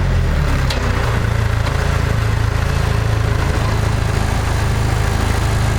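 Restored International Harvester TD-7 Series C bulldozer's diesel engine running. It drops in speed right at the start and then settles into a steady idle.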